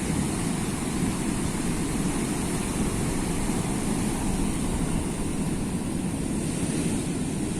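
Sea surf: a steady, even rush of waves with no single break standing out.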